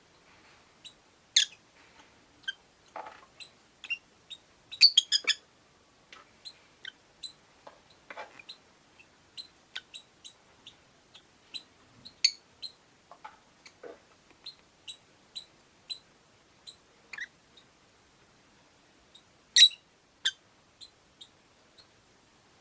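Rosy-faced lovebirds chirping: short, sharp, high calls at irregular intervals, with a quick run of calls about five seconds in and the loudest call near the end.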